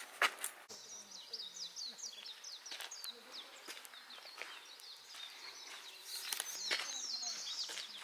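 Wild songbird singing a rapid run of short, high, falling chirps, with a few brief soft clicks among them.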